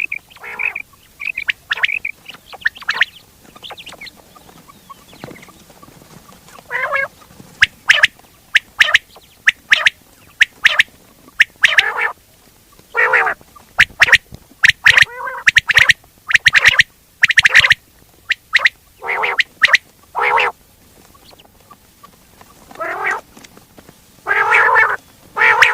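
Quail calls in a recording of the kind played to lure quail when hunting: many short, sharp calls in irregular clusters, with a few longer, harsher calls.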